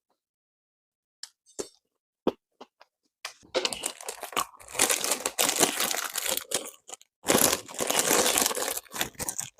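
Close-miked crunching and tearing of a crusty bánh mì baguette as it is bitten and chewed: a few sparse crackles about a second in, then dense, loud crunching from about three seconds on.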